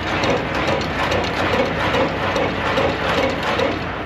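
Semi-trailer landing gear being hand-cranked, the gearbox clicking and grinding in a steady rhythm of about three turns a second, with the truck's diesel engine idling underneath.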